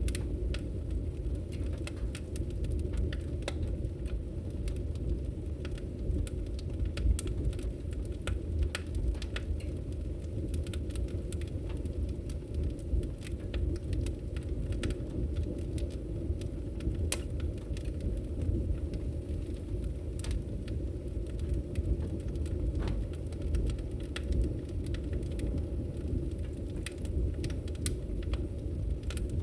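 Wood fire burning in a fireplace: a steady low rumble of the flames with many sharp crackles and pops at irregular intervals.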